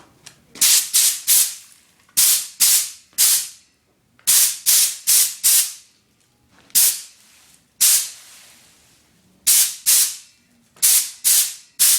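Air blowgun on a Craftsman 25-gallon air compressor's hose fired in short blasts of compressed air: about twenty sharp hisses in quick groups of two to four, with one longer blast near the middle.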